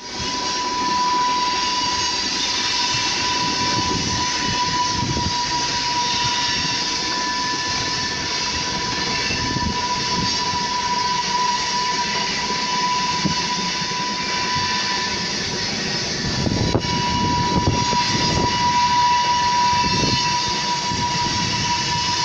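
A rail vehicle running, rumbling steadily, with a continuous high-pitched squeak held on one note throughout; there is a single sharp click about three-quarters of the way through.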